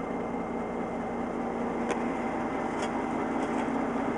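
Western Star dump truck's diesel engine idling steadily, with two light clicks about two and three seconds in.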